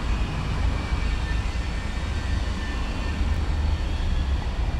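Steady wind rumble on the microphone and road noise from a bicycle being ridden over wet city streets.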